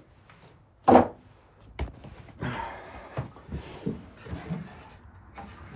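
A sharp knock about a second in, then a smaller click and a run of lighter knocks and rustling.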